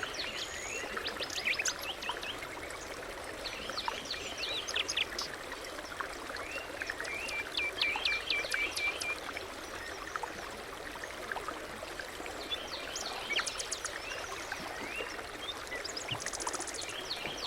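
Several songbirds singing and calling, many short chirps and whistles with a run of quick repeated notes about halfway through, over the steady rush of a flowing stream.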